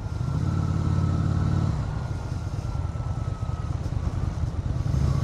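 Motorcycle engine at low road speed, heard through a mic inside the rider's helmet. It picks up soon after the start, eases off for about three seconds, then picks up again near the end.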